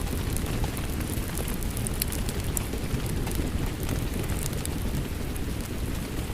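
Steady rain mixed with a crackling fireplace: a dense, even rain noise with scattered sharp pops and crackles of burning wood.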